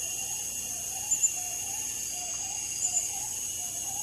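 Rainforest insect chorus: crickets and other insects keep up a steady high-pitched drone, while a low wavering call repeats underneath. Pairs of sharp chirps stand out twice, about a second in and near three seconds.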